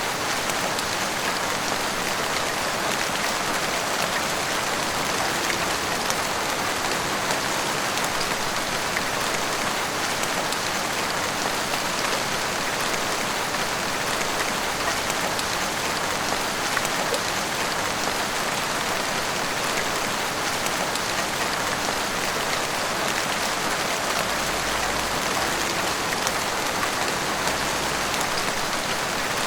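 Heavy rain falling steadily, pouring down and drumming on rooftops and the street, with scattered drops ticking close by.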